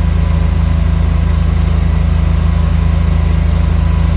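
Car engine with Bosch CIS (continuous injection) running steadily at a fast warm-up idle of about 3,100 RPM after a cold start, with no throttle applied.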